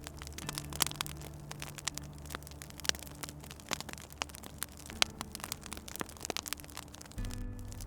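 Wood fire crackling, with frequent irregular sharp pops and snaps, over a soft low hum whose pitch shifts a few times and swells near the end.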